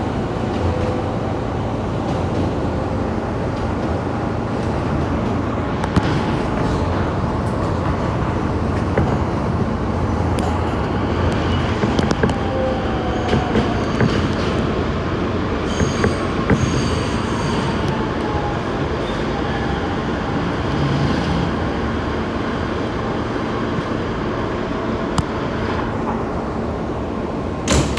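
New York City subway train running, heard from inside the car: a steady rumble of wheels on rail, with scattered clicks and brief high-pitched wheel squeals.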